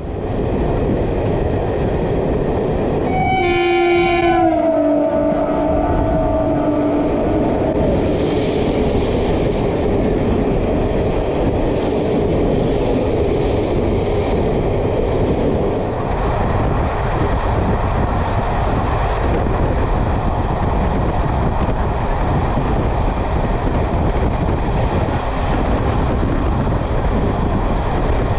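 Train running with a steady rumble and rail clatter. About three seconds in, a train air horn sounds for roughly four seconds, its pitch dropping partway through.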